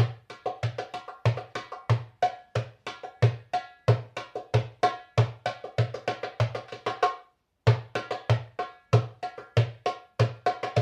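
Middle Eastern hand drum played in a fast solo rhythm. Deep low strokes are mixed with sharp, ringing higher strokes, with a brief pause about seven seconds in.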